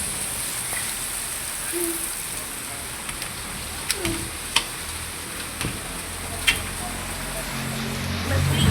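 Heavy rain falling, a steady hiss with a few sharp drip taps in the middle. A low rumble builds over the last few seconds.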